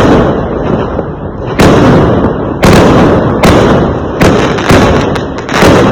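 Fireworks going off: loud, sharp bangs about once a second, around seven in all, each trailing off in a rumbling, crackling tail before the next.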